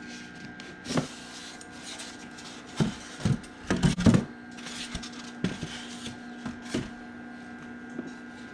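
Knocks and clatter from handling an egg incubator's parts while it is opened, thickest in a cluster around the middle, over a steady electrical hum.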